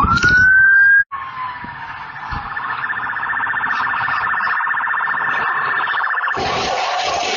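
Emergency vehicle siren: a wail rising in pitch, cut off about a second in, then a rapid warbling siren pulsing several times a second. Near the end it gives way to a noisier traffic sound with a lower steady tone.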